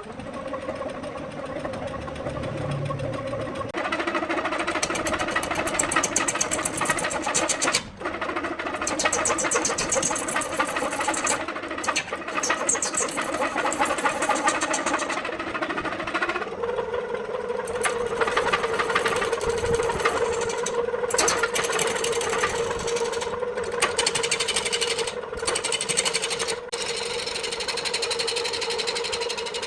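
Electric woodworking machine running steadily with a rapid, rhythmic clatter of ticks over its tone; the pitch settles to a steadier note about halfway through.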